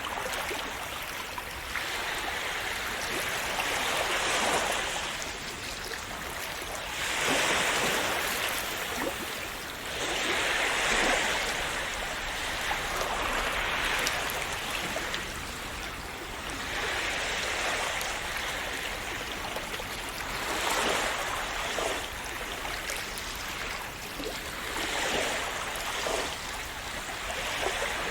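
Calm sea waves washing and splashing on the shore, the rush of water swelling and falling back every three to four seconds.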